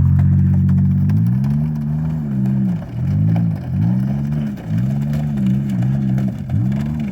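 Straight-piped GM 3.1 V6 of a Buick Century, with no muffler or catalytic converter, running at full throttle. It holds a steady high note for about a second, then the revs rise and fall over and over, about once a second.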